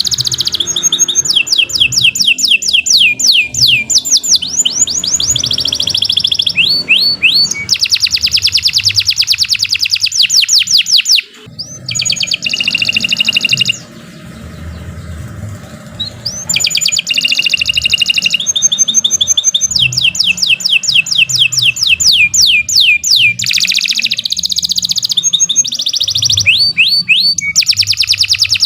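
A domestic canary singing a long, continuous song of rapid trills: runs of fast, evenly repeated notes that each sweep downward, changing from one trill type to the next. There is a brief pause about 11 seconds in, then a few seconds of quieter song before the full trilling resumes.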